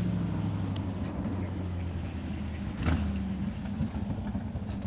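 Sprint car engine idling low and steady, with one sharp pop about three seconds in and a few lighter pops near the end.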